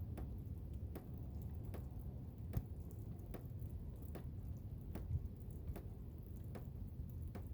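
Blizzard ambience: a steady low rumble of wind with irregular sharp ticks, about two a second.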